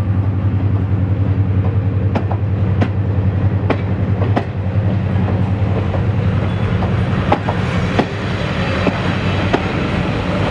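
Passenger coaches rolling slowly past, with a steady low drone and rumble from the train. The wheels click sharply over the rail joints, several times in the first half and a few more times later.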